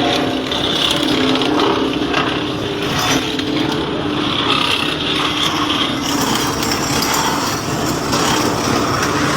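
An engine running steadily and loudly, with continuous mechanical noise.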